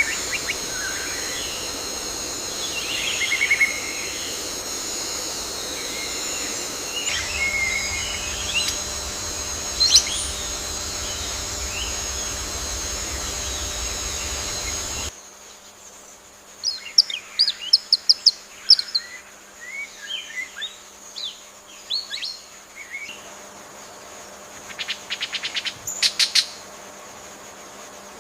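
Rainforest ambience: insects droning steadily at a high pitch under scattered bird calls, with a low rumble joining about a quarter of the way in. About halfway the drone and rumble cut off and many short, quick bird chirps take over, with a rapid trill near the end.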